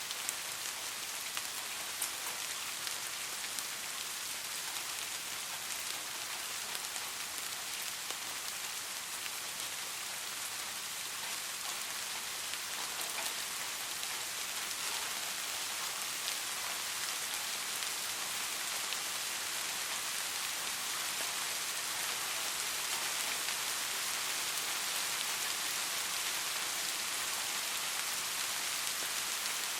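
Steady rain falling, a dense hiss with fine scattered drop ticks, growing slightly louder in the second half.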